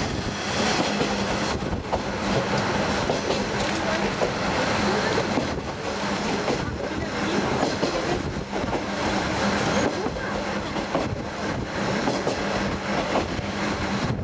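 Diesel railcar running along the line, heard from aboard an open-windowed trolley car: a steady low engine drone under rushing wind and track noise, with occasional clicks from the rail joints.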